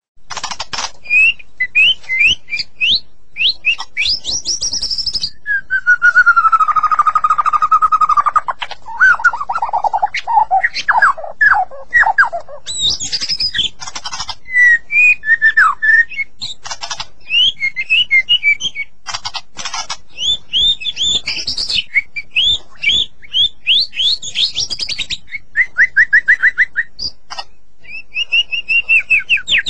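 White-rumped shama singing a long, varied song of clear whistled phrases, rising and falling slides, and fast runs of repeated notes, with short pauses between phrases.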